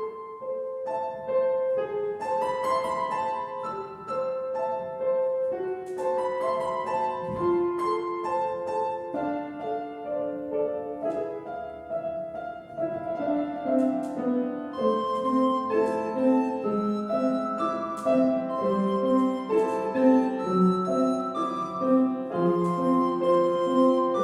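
A young child playing a gentle lullaby on solo piano: a simple melody of held notes, with a lower accompaniment that grows steadier about halfway through.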